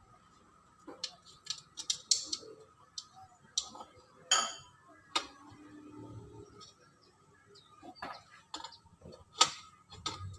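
Irregular light clicks, clinks and a few sharper knocks of hand tools and metal parts being handled while a washing machine's spin motor is fitted.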